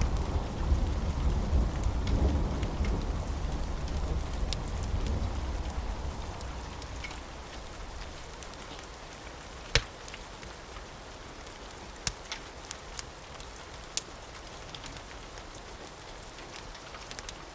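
Steady rain, with a low rumble of thunder that dies away over the first several seconds. Afterwards the rain goes on more quietly, broken by a few sharp clicks, the loudest about ten seconds in.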